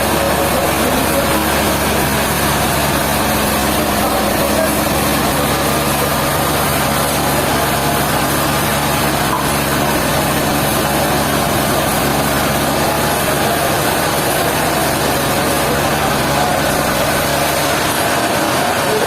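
Sawmill machinery running steadily, a continuous engine-like hum mixed with broad mechanical noise.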